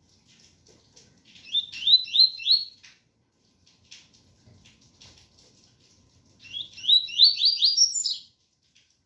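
Double-collared seedeater (coleiro) singing its 'tui tui' song: two phrases of quick rising whistled notes, a short one of about four notes a second and a half in, and a longer, faster run near the end that climbs higher.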